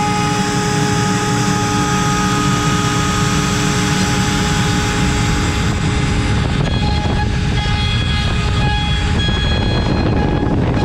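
CNC router spindle running at 24,000 rpm with an 8 mm cutter milling wood: a steady high whine with the rough noise of the cut beneath. About six seconds in, the whine's tones shift and come and go as the cutter's load changes along the toolpath.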